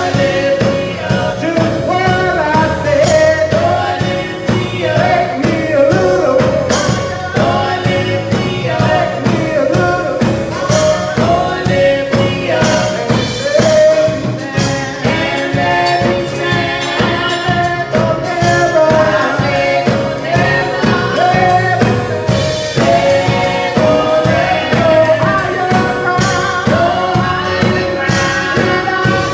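Church praise team singing a gospel song of praise with band accompaniment and a steady drum beat.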